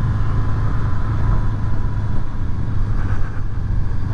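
Honda VFR800's V4 engine running at a steady pace while riding, with road and wind noise.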